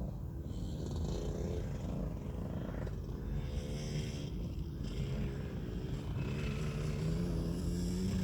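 Small two-stroke motocross bike engine, a KTM 65 SX, running on the track, its note wavering up and down with a steadier low tone near the end.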